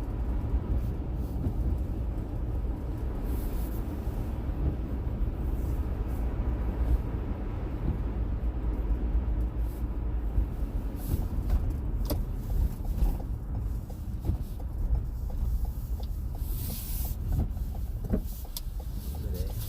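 A car driving: steady low rumble of engine and road noise, with a few brief clicks and swishes along the way.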